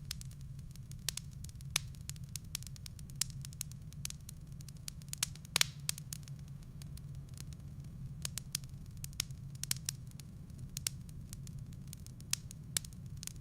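Wood fire burning in a fireplace, crackling with irregular sharp pops and snaps over a steady low rumble. The loudest snap comes about halfway through.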